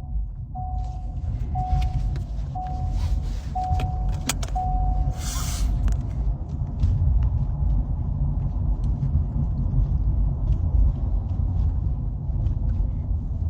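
Steady low rumble of a car driving, heard from inside the cabin. A short electronic beep repeats about once a second for the first five seconds, and a brief hiss follows about five and a half seconds in.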